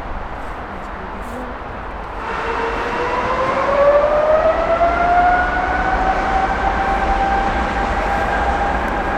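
Jet airliner engines with a steady roar. About two seconds in, a whine rises over the roar for a few seconds and then holds steady as the engines spool up.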